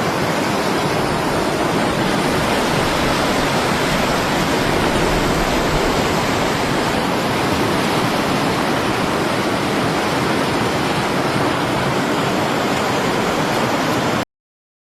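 Steady, loud rush of running water, like a waterfall or fast mountain stream; it cuts off suddenly near the end.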